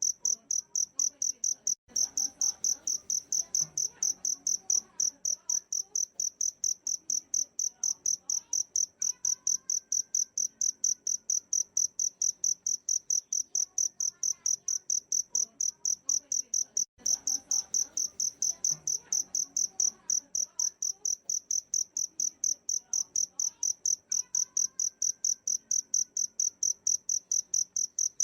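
High, cricket-like chirps repeated steadily about three to four times a second, with faint bird calls and a falling whistle behind them. The whole track loops about every 15 seconds, with a brief break at each join.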